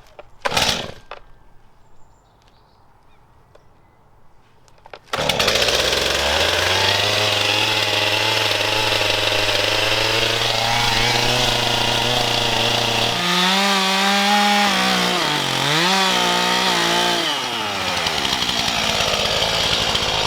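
Stihl two-stroke chainsaw starting suddenly about five seconds in, after two short knocks at the start, and running loud and steady. Around the middle it rises in pitch, dips once, then drops back lower.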